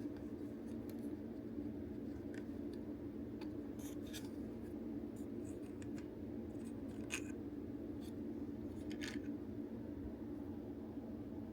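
Scattered light clicks and scrapes of plastic toy parts being handled while a DX Bugle Driver Zwei toy belt is taken apart, over a steady low hum.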